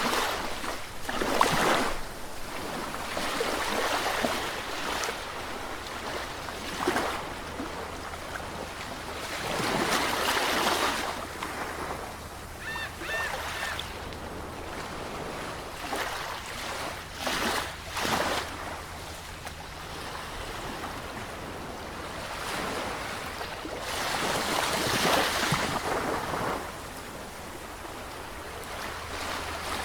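Ocean waves breaking and washing ashore in repeated surges every few seconds over a constant wash of surf. About halfway through, three short high chirps sound briefly.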